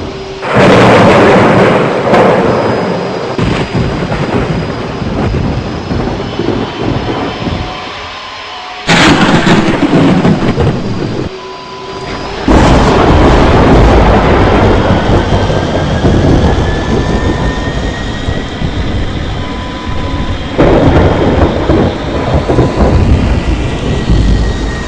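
Fokker 70 jet landing in rain: a loud rumble and rush of air and rain that drops away and comes back abruptly several times, with a faint whine rising slowly through the second half.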